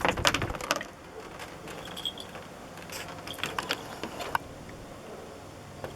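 A cat gnawing on a tree branch: a quick run of crunchy clicks in the first second, then scattered cracks and snaps of the wood about three to four seconds in.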